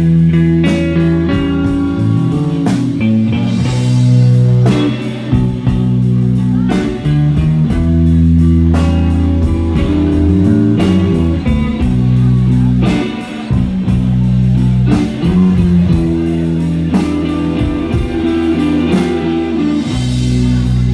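Live blues-rock band playing an instrumental passage without vocals: guitar over steady bass notes, with drums keeping an even beat.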